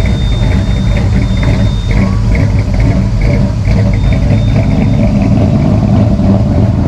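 Car engine running steadily at idle, loud and close.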